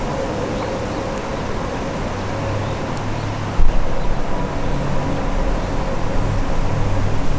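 Wind blowing, with a strong gust buffeting the microphone about three and a half seconds in, a sudden loud low rumble that keeps surging after it.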